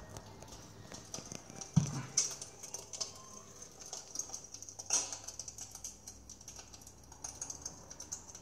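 Electric fireplace's wood-fire crackle sound effect played through its speaker: irregular small pops and crackles over a faint hiss, with louder pops about two seconds in and again about five seconds in.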